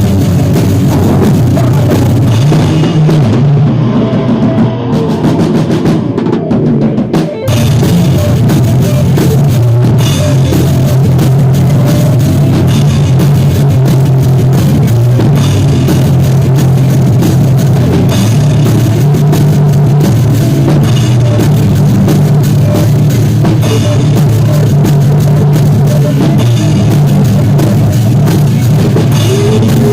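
Live rock band rehearsal: a drum kit with bass drum and cymbals playing over bass and other instruments, recorded loud with poor sound. The cymbals thin out a few seconds in, and the full kit comes back in after about seven seconds.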